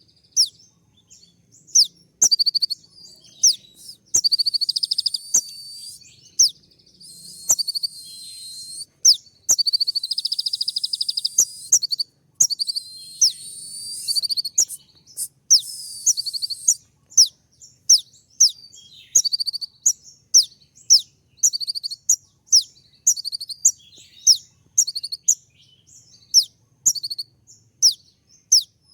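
Konin (kolibri ninja sunbird) calling in a rapid string of short, sharp, very high 'shot' notes, broken by a few longer buzzy trills.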